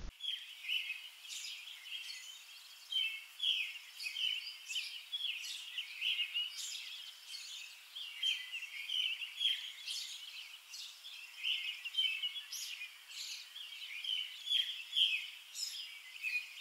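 Small birds chirping and singing: a dense, overlapping run of short, high notes, many falling in pitch, going on without a break.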